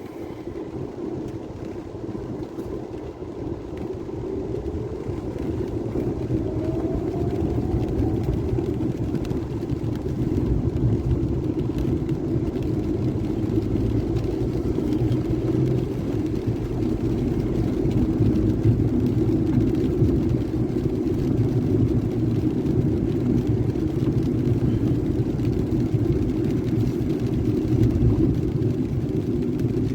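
Low, steady rumble of a vehicle on the move, growing louder over the first ten seconds and then holding, with a faint rising whine about six seconds in.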